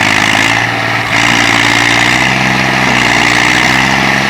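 Tractor diesel engine running steadily, with a brief dip in its note about a second in.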